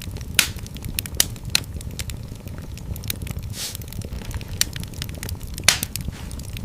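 Fire burning in a fireplace: irregular crackles and sharp pops, a few of them louder, over a steady low rumble of flames, with a brief hiss about halfway through.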